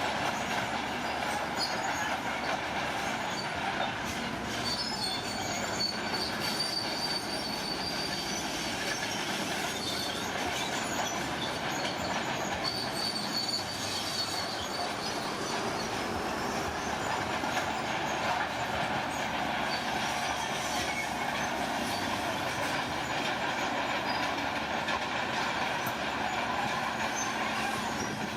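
Heavy crawler machinery working: a bulldozer's steady engine noise with its steel tracks clanking, and a faint high squeal twice, a few seconds in and again near the middle.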